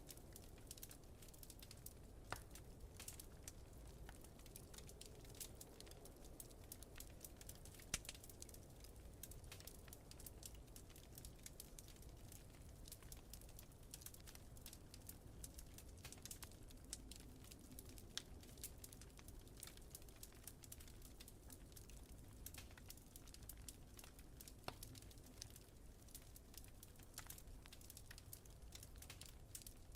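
Wood fire crackling faintly, with many small irregular pops and a few sharper snaps, the loudest about 8 seconds in, over a low steady rumble.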